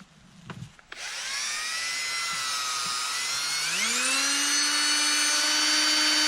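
Power drill spinning an engine exhaust valve chucked by its stem while a Scotch-Brite pad is held against it to clean off debris. The motor whine starts about a second in, rises in pitch a little before four seconds and then holds steady, with a rubbing hiss underneath.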